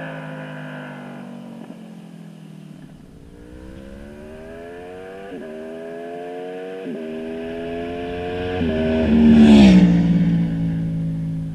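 Honda VFR800's V4 VTEC engine through an SC Project exhaust, accelerating hard in a flyby. Its pitch climbs through three quick upshifts, then the note is loudest and drops sharply as the bike passes, about nine and a half seconds in, settling to a steady lower tone as it moves away.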